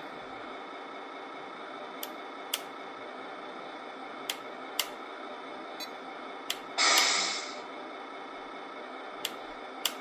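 Tamiya Scania 770S RC truck: a steady hum, a string of sharp clicks at irregular spacing, and about seven seconds in a short hiss of air that fades away.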